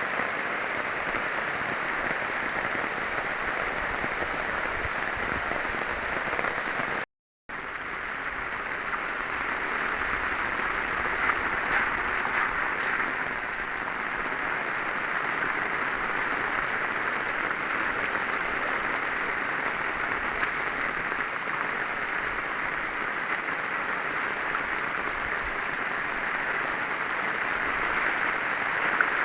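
Heavy rain pouring down steadily in a downpour, with a brief total dropout about seven seconds in.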